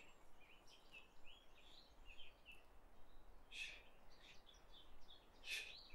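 Faint birdsong: scattered short, high chirps and twittering notes, with a couple of sharper calls in the second half.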